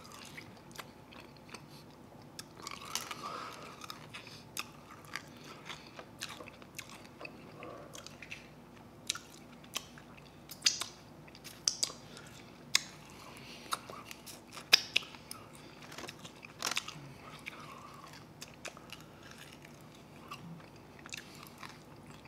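Close-up chewing and lip smacking while eating chicken wings, with a string of short wet smacks and crunches and several louder ones in the middle stretch.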